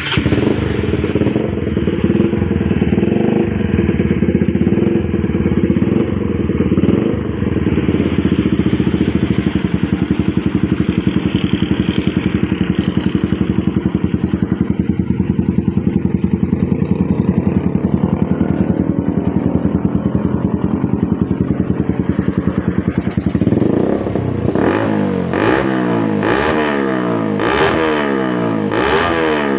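Suzuki Satria FU's 150 cc single-cylinder engine, its cylinder head modified for a double exhaust, idling steadily. About three-quarters of the way through it is blipped on the throttle again and again, the revs rising and falling roughly once a second.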